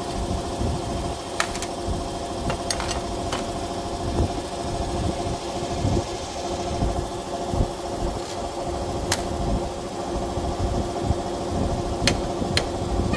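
A motor running steadily, with a few sharp metallic clicks and knocks scattered through it.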